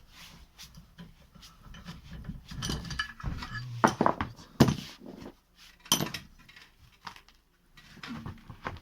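Metal hand tools clinking and knocking against metal, with a few sharp clanks about four, four and a half, and six seconds in.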